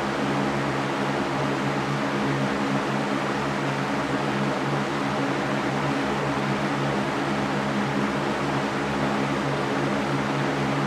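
Electric fan running steadily: an even whoosh of moving air over a low motor hum that holds the same pitch.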